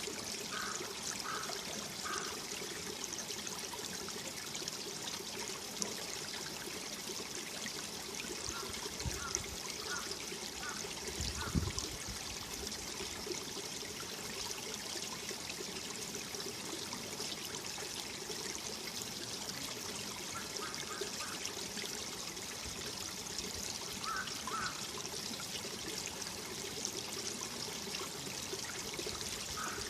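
Mountain valley stream flowing: a steady rush and trickle of water. Every several seconds there are small groups of two to four short, faint higher notes, and there is a brief low bump about eleven seconds in.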